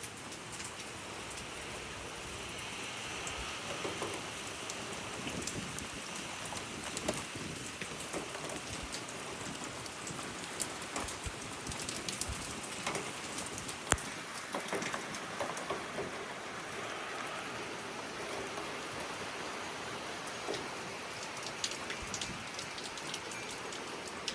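Heavy rain falling steadily, with many drops tapping on nearby surfaces and one sharper tap about fourteen seconds in.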